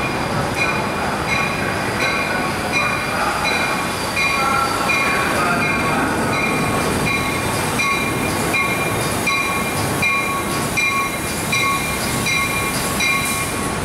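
Amtrak passenger train pulling into the station with its bell ringing steadily, about three rings every two seconds, over the rumble of the cars rolling in.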